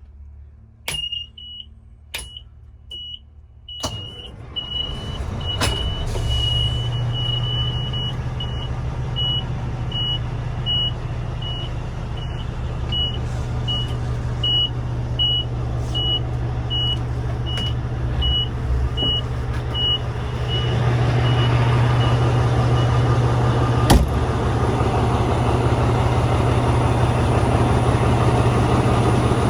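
Oshkosh Striker 3000 aircraft rescue truck's Caterpillar C-16 diesel starting after a few sharp clicks and then idling, its low running note getting louder about two-thirds of the way through. A high warning beep repeats quickly, a little faster than once a second, and stops shortly before the engine note rises.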